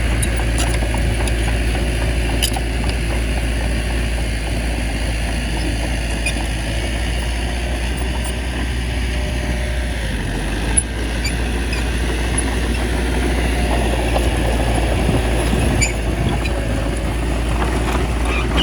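A small bulldozer's diesel engine running steadily with a deep rumble. A sharp knock comes about eleven seconds in.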